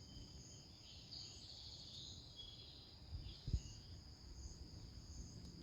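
Steady high-pitched chirring of crickets, with a few faint short bird calls over it. There is a brief low thump about three and a half seconds in.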